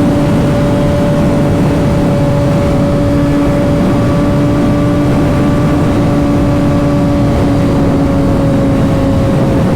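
Motorcycle engine running at a steady cruise, its pitch sinking slightly as it eases off, under a heavy rush of wind noise.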